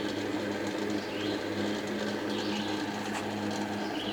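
Steady low machine hum at an even, unchanging pitch, with a few faint high chirps over it.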